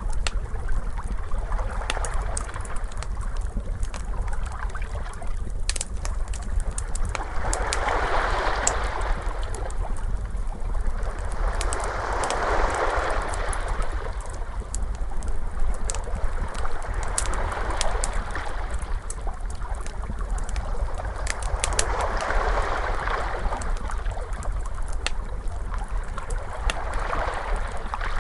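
Ocean waves washing in, swelling and falling back every four to five seconds over a steady low rumble, with a wood fire crackling in sharp scattered pops throughout.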